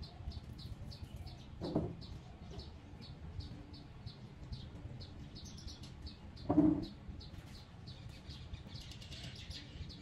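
A small bird chirping over and over at an even pace, about three high chirps a second. Two brief, louder, lower sounds break in, one about two seconds in and a stronger one a little past six seconds in.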